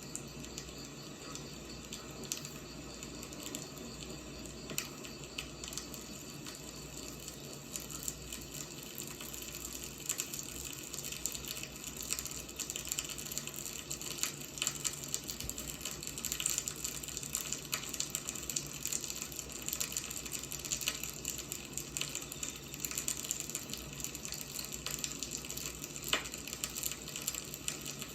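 Firewood burning: a steady hiss dotted with frequent small crackles and pops, with one sharper pop about 26 seconds in.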